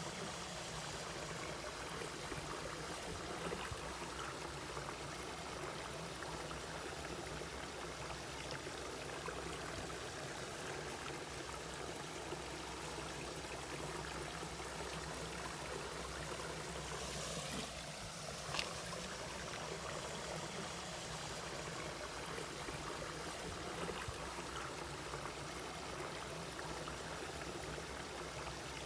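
Mountain valley stream flowing steadily over rocks, with one short sharper sound about two-thirds of the way through.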